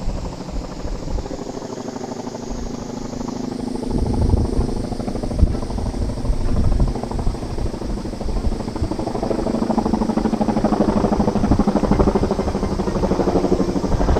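A low, rapidly pulsing mechanical drone that grows louder about halfway through.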